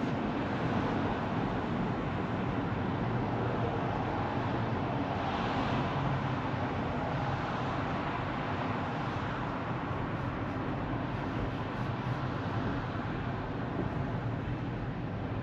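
Steady tyre and road noise from a Tesla Model 3 driving along, with no engine sound because the car is electric. The noise swells slightly about five seconds in.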